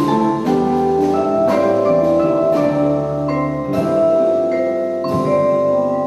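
Jazz vibraphone playing ringing struck chords over a jazz ensemble, the notes sustaining and overlapping into one another.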